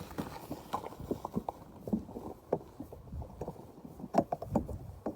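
Sheep feeding at a hay bale in a feeder: irregular knocks and rustling, with a cluster of louder knocks about four seconds in.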